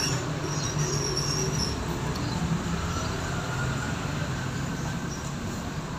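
Steady low rumble of background traffic, with a wavering low hum.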